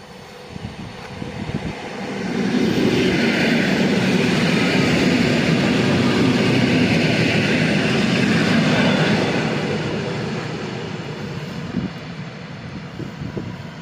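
EN57AKŚ electric multiple unit running past on the rails as it comes into the station: the noise swells in about two seconds in, stays loud for several seconds, then slowly fades.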